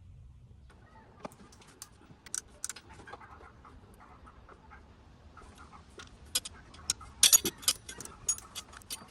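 Wrench and bolts clicking and clinking on metal, irregularly, as the intake manifold bolts are taken out, with the loudest cluster of clinks near the end.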